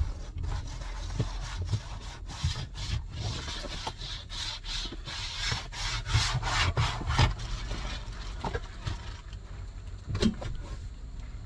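Irregular rubbing and scraping with scattered knocks, heaviest in the middle: things being handled or moved about at close range.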